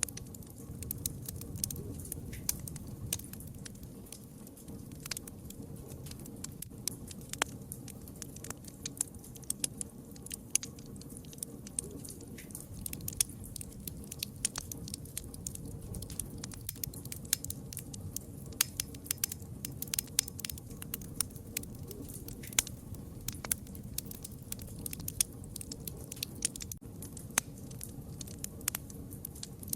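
Wood fire crackling: many irregular sharp pops and snaps over a steady low rumble of the burning fire.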